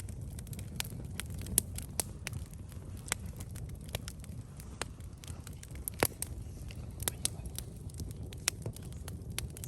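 Wood campfire crackling, with irregular sharp pops, two of them louder about a second and a half and six seconds in, over a low steady rumble.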